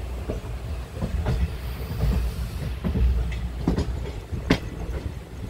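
Passenger train running slowly on its rails: a steady low rumble with the clickety-clack of wheels knocking over rail joints about once a second.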